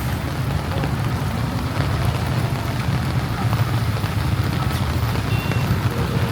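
Road traffic in heavy rain: vehicle engines running with a steady low rumble over an even hiss of rain and tyres on the wet road.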